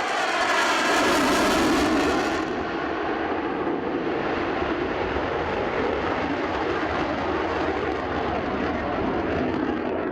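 Eurofighter Typhoon's twin EJ200 jet engines in a close pass: the roar falls in pitch as the jet goes by, the sharp hiss cuts off about two and a half seconds in, then a steady duller rumble as it moves away.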